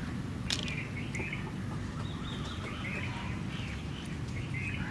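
Birds chirping repeatedly in short calls, with one sharp click about half a second in over steady low background noise.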